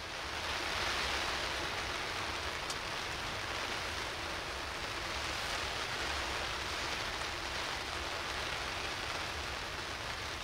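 Steady rain falling on a hunting ground blind, heard from inside as an even hiss.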